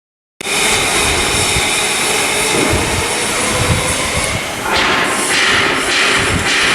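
Loud, steady machinery noise with a strong hiss, starting abruptly and changing in tone about five seconds in.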